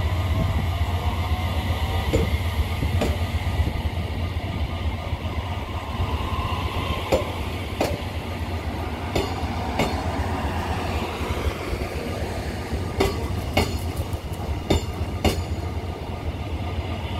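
O-train multiple-unit passenger train pulling out of the station: a steady low drone with sharp wheel clicks over the rail joints, coming closer together as it picks up speed.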